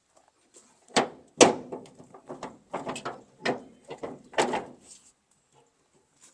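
Sharp knocks and clanks from a pickup's tailgate being worked on its hinges and latches: five loud irregular hits over about four seconds, with smaller rattles between.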